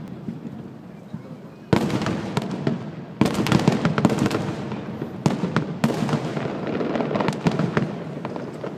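Aerial fireworks bursting: a sudden bang a couple of seconds in, then several more, each followed by dense crackling that fades out toward the end.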